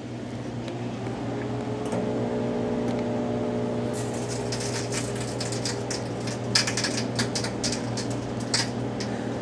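Microwave oven running with a steady hum. From about four seconds in, irregular crackling snaps join it, typical of a disc's metal layer sparking inside the oven.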